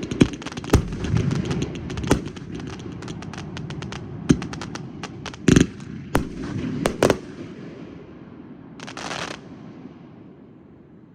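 Fireworks going off: a dense run of sharp bangs over crackling that thins out after about seven seconds and fades away, with a brief hiss near the end.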